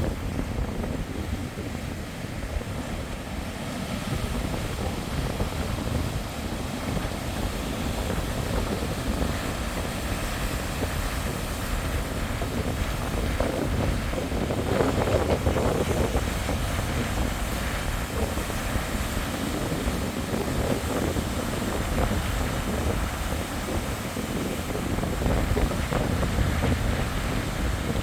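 Strong wind buffeting the microphone over surf breaking on the shore, with a louder surge of breaking waves about halfway through.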